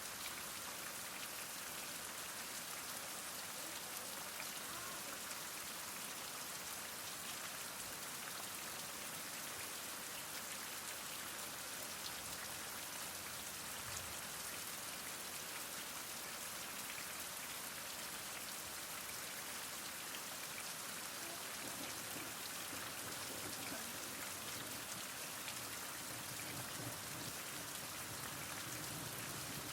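Heavy rain falling steadily, a dense even hiss of drops striking surfaces, with fine scattered patter throughout.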